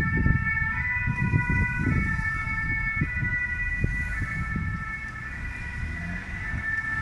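Emergency-vehicle sirens sounding a two-tone call that switches pitch about once a second, with more than one siren overlapping, over a loud low rumble of wind or traffic.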